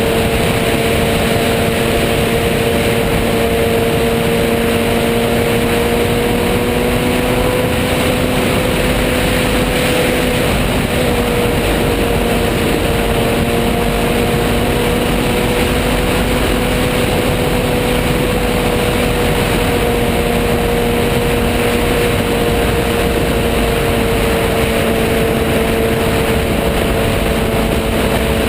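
Motorcycle engine running at a steady, nearly constant pitch, with only slight rises and falls, under loud wind noise.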